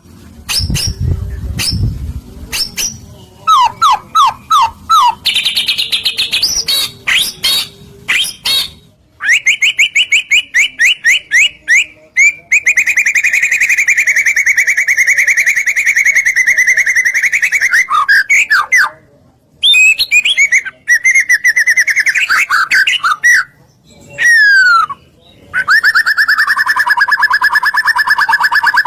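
White-rumped shama (murai batu) in full song: loud, varied phrases of whistles, quick repeated notes and falling sweeps, with long fast trills near the middle and again near the end.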